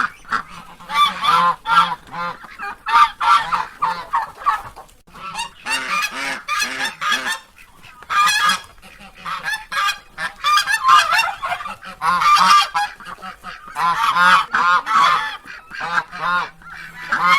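Ducks quacking in repeated runs of short, nasal, honking calls, several in quick succession, with brief pauses between the runs.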